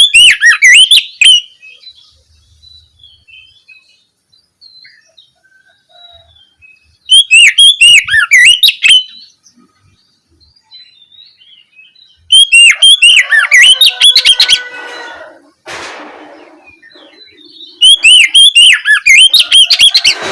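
Oriental magpie-robin (kacer) singing loud, full song in four separate bursts of fast, rapidly repeated high notes, each about two seconds long, with quiet pauses between them.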